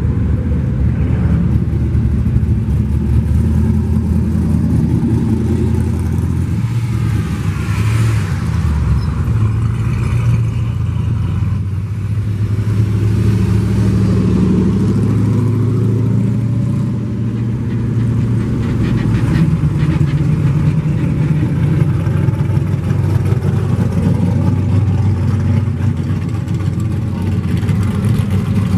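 Muscle car engines running as the cars drive past, loud and steady.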